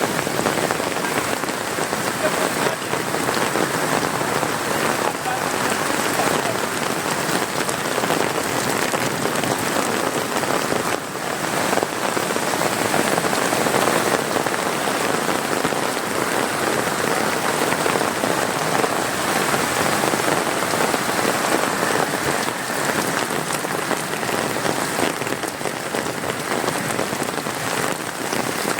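Rain falling steadily, an even, dense hiss that does not let up.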